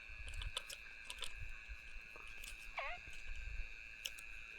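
Steady night insect chorus, with scattered clicks and knocks of fishing gear being handled, and a short falling, wavering call about three seconds in.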